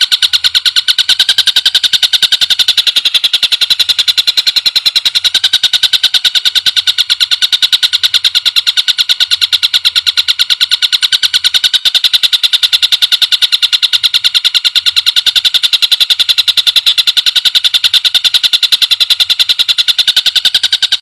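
Green leafbird (cucak ijo) calling in a rapid, steady trill of evenly repeated high notes, used as a masteran training recording.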